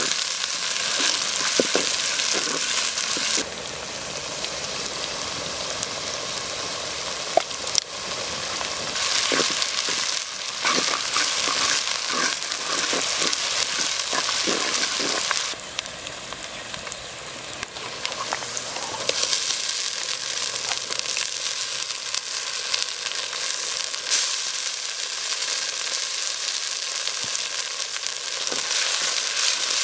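Sliced onions and dried red chillies sizzling in hot oil in a clay pot, stirred with a wooden spatula that clicks and scrapes against the pot. The hiss drops in level about three and a half seconds in and again about fifteen seconds in.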